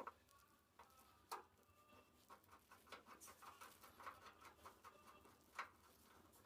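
Faint clicks and small ticks of hands working on the underside of a gas stove, fitting a flame-sensor needle, its plug and screw, with two sharper clicks, one about a second in and one near the end.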